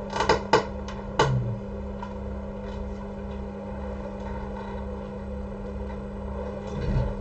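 Four sharp clicks of small objects being handled in the first second or so, over a steady hum with a slow low pulsing under it.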